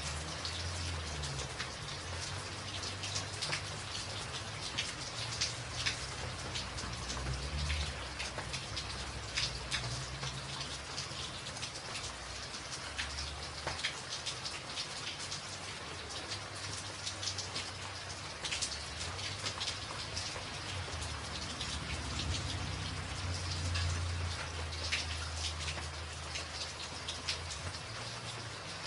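Steady rain on a tin roof, with many individual drops ticking sharply over the even patter, and a low rumble that swells and fades underneath.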